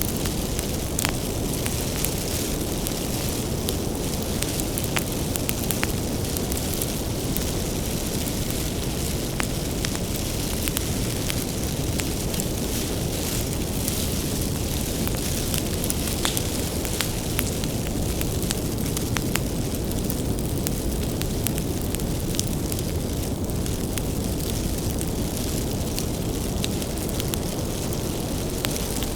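Bonfire burning, with a steady low rumble and many sharp crackles and pops of burning firewood scattered throughout.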